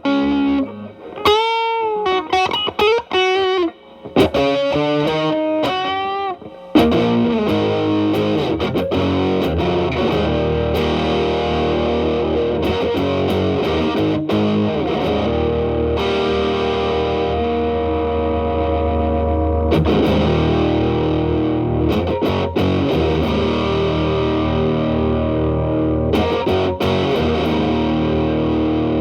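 Telecaster electric guitar played through an E.W.S. Brute Drive (BD-1) distortion pedal with its boost engaged, into a Marshall Valvestate on its clean channel. It opens with bent single-note lead lines with vibrato, then from about seven seconds in switches to sustained, thick distorted chords. The pedal's gain is turned to maximum about twenty seconds in.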